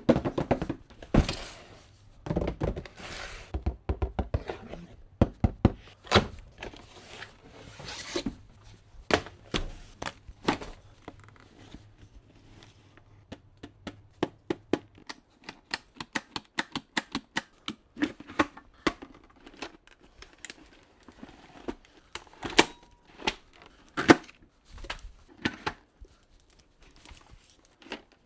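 Packaging being opened and handled: paper and plastic tearing and crinkling, with many sharp clicks and knocks throughout.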